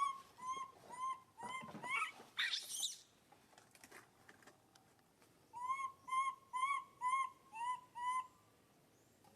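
Animal calls: a run of short, evenly spaced, arched piping notes, about two a second, broken about two seconds in by a rising squeal, then a second run of about six notes in the second half.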